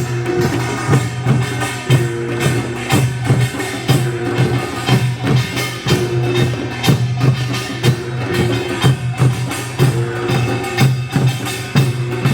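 Traditional Korean folk percussion music: drums and a wooden clapper struck in a steady, even beat of about two to three strokes a second over a sustained low tone.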